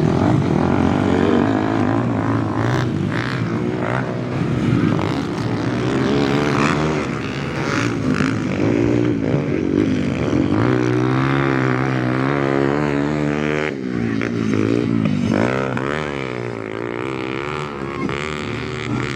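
Motocross bikes' engines revving on the track, their pitch repeatedly rising and falling as the throttle opens and closes and the bikes pass.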